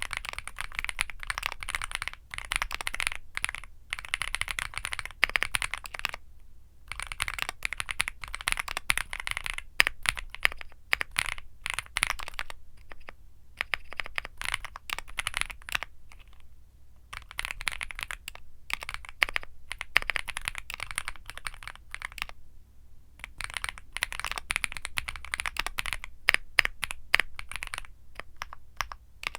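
Typing on a Womier SK75 mechanical keyboard with Womier Mint Blizzard switches: fast runs of keystroke clacks, broken by brief pauses a few times.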